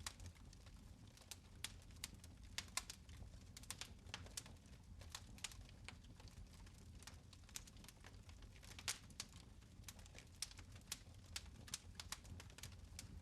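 Fire in a fireplace crackling, with irregular sharp pops and snaps, several a second, over a faint low rumble.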